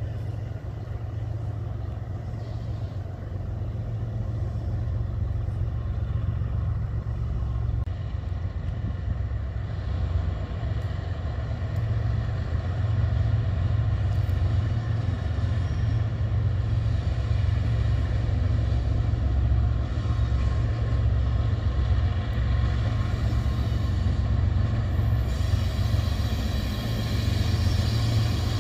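Freight trains running through a rail junction: a steady low rumble that grows louder as a BNSF diesel locomotive approaches with its train, while a double-stack container train crosses overhead. A higher, brighter noise joins near the end.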